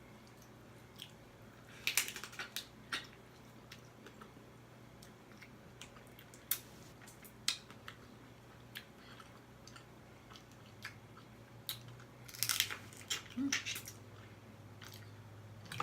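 Crab legs being eaten: sharp cracks and crunches of shell being broken, with chewing, in scattered clicks that bunch together about two seconds in and again near the end.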